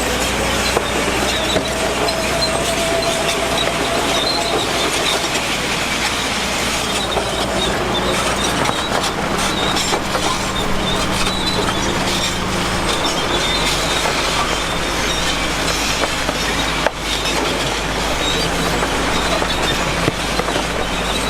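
Heavy tracked construction machine working: a diesel engine runs steadily under a continuous clatter of metal tracks, with a faint squeal near the start.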